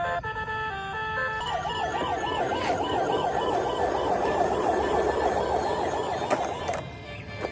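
Fast warbling electronic siren, its pitch swinging up and down about five times a second, starting about a second and a half in and cutting off near the end, after a short electronic beeping tune.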